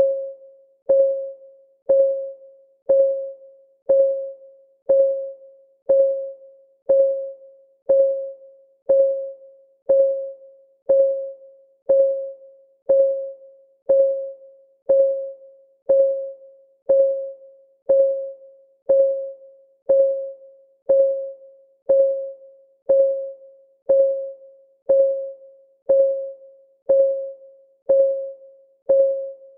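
Countdown timer's clock-ticking sound effect: one short, pitched tick about once a second at a perfectly even pace, each fading quickly with a fainter echo just after it.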